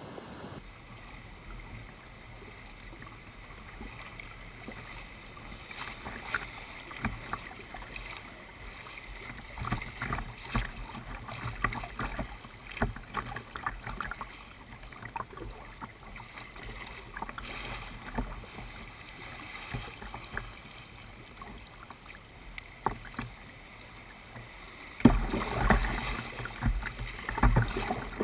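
Kayak paddling on a river: paddle blades dipping and splashing, with scattered light knocks and drips. The splashing grows louder near the end.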